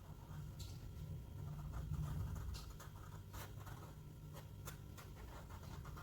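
A drawing tool scratching on paper in many short colouring strokes, faint, over a low rumble.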